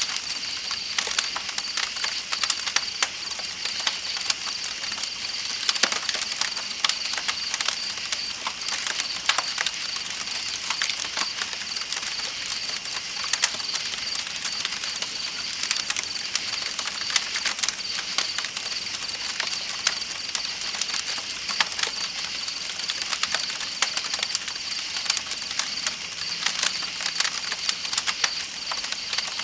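Campfire crackling with frequent sharp pops, over a steady high chirring of night insects and a soft rush of flowing river water.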